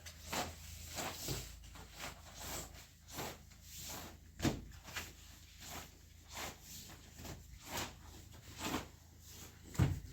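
Light knocks and clicks, fairly regular at about two a second, with a louder knock about halfway through and another near the end.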